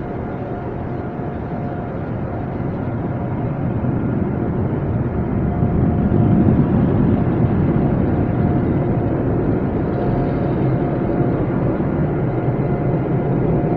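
Automatic tunnel car wash machinery heard from inside the car: a steady rushing roar that grows louder about five seconds in, then holds.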